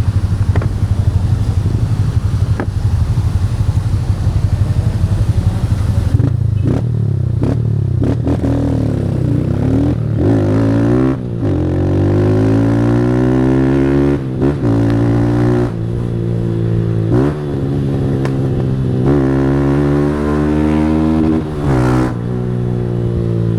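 Single-cylinder Honda 160 motorcycle with an aftermarket Fortuna Trioval exhaust, ridden hard. For the first six seconds it runs steadily under a heavy rushing hiss. After that it revs up repeatedly, each climb broken by a brief dip and a drop in pitch as it shifts gear.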